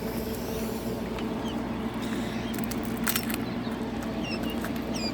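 Steady hum of an egg incubator running, with faint, short, high peeps from newly hatched chicks and a few clicks about three seconds in.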